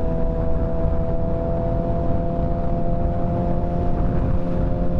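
Motorcycle engine running at a steady cruising speed, its pitch holding even, under a dense rumble of wind noise on the microphone.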